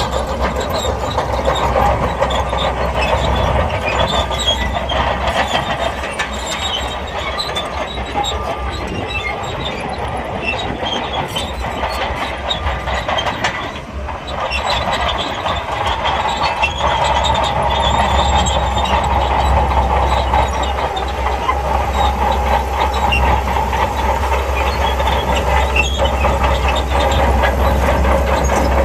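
SHANTUI crawler bulldozer working, its diesel engine running under load with the steel tracks clanking. It dips briefly about halfway, then runs louder.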